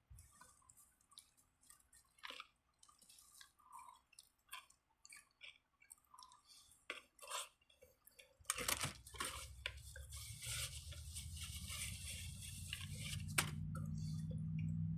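Quiet chewing of a sandwich with small scattered mouth clicks. About eight and a half seconds in, a low steady hum comes in and slowly grows louder, with more clicks and rustles over it.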